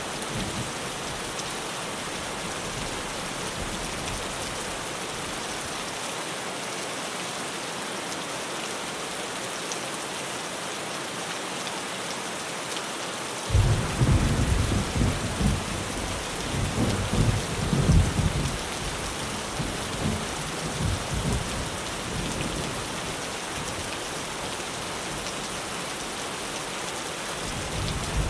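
Steady rain pattering on a tin roof, with a clap of thunder breaking in suddenly about halfway through and rolling on in uneven rumbles for several seconds before fading. A smaller rumble of thunder follows near the end.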